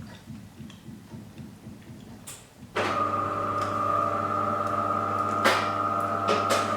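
Soft rapid ticking, then about three seconds in a machine switches on and runs with a loud, steady, many-toned hum, with a couple of brief clicks over it.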